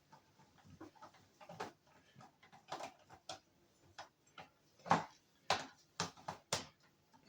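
Irregular clicks and knocks of hand work on a truck instrument cluster: a screwdriver and small self-tapping screws being worked into the cluster housing. The clicks come at an uneven pace, with the loudest about five seconds in.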